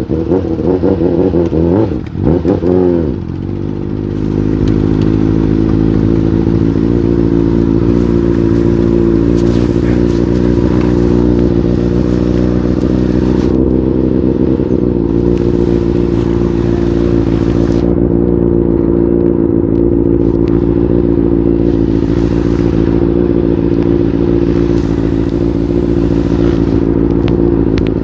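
Motorcycle engine running. Its note dips and climbs about two to three seconds in, then holds steady, stepping down a little about halfway through.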